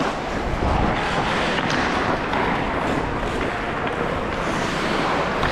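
Steady, echoing noise of an ice hockey game in play inside a rink hall, with no single sound standing out.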